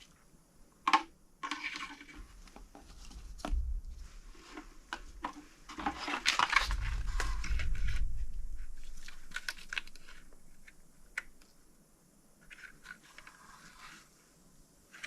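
Clicks, small knocks and rustling of tools and parts being handled at an engine block, with a longer rushing noise that swells and fades near the middle.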